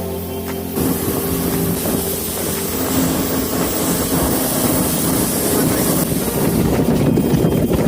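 Boat engine running under way, with wind buffeting the microphone.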